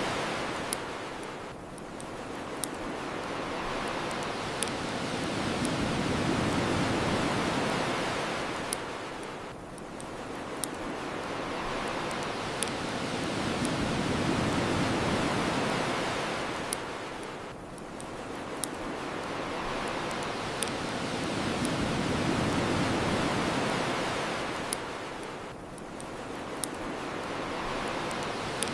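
Ocean waves washing on the shore in slow surges about every eight seconds, with the sharp pops of a crackling bonfire every second or two.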